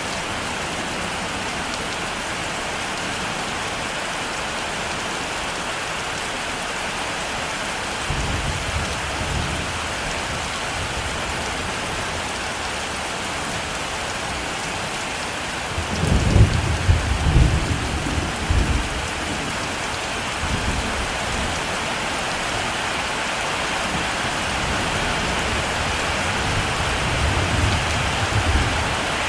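Heavy rain falling steadily, with thunder rumbling: a low roll about eight seconds in, a louder one lasting a few seconds a little past halfway, and a softer one near the end.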